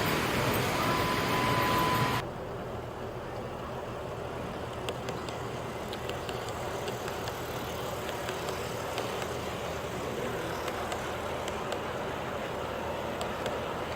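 O scale model diesel train running on the layout: a steady rumble with faint scattered clicks of wheels on track. A louder, hissy passage with a thin steady whistle-like tone cuts off abruptly about two seconds in.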